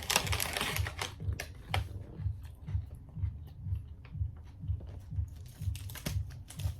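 Someone chewing a crispy Cocoa Pebbles cereal bar: crackly crunching in the first couple of seconds, then steady rhythmic chewing about three times a second.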